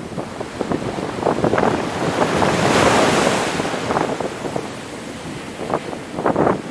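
Ocean surf: a wave breaks and washes in, swelling to its loudest about three seconds in and then easing off, with choppy splashing around it.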